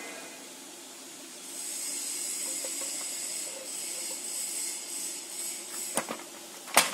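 A steady high-pitched hiss starts about a second and a half in. Near the end come a click and then a single sharp crack, the loudest sound, fitting a paving block snapping under the blade of a manual lever paving cutter.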